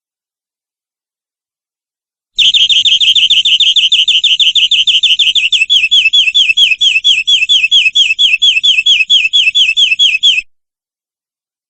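Domestic canary singing a long rapid trill of repeated notes, each a short downward slur, starting about two seconds in. Partway through, the notes turn slightly slower and more clearly slurred before the song cuts off suddenly near the end.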